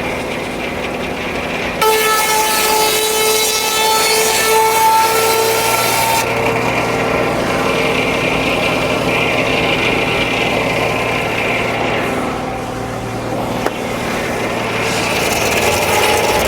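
Frick No. 1 sawmill running steadily, its circular head saw and power unit making a low drone. About two seconds in, a loud pitched whine with a hiss starts and lasts about four seconds, then gives way to a rougher, lower noise as the mill runs on.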